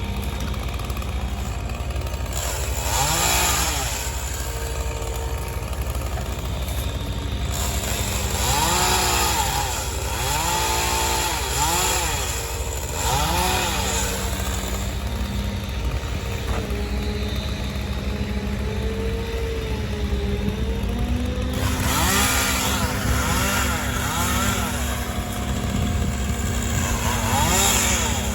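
Chainsaw revving up and down in a series of cuts, with a diesel engine idling steadily underneath.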